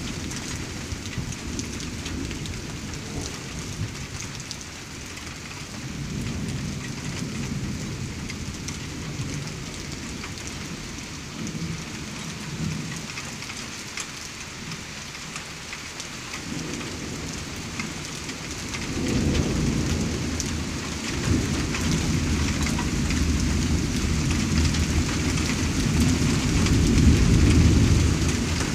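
Thunderstorm: steady rain hissing, with thunder rumbling low underneath. The rumble comes and goes, then swells about two-thirds of the way in and is loudest near the end.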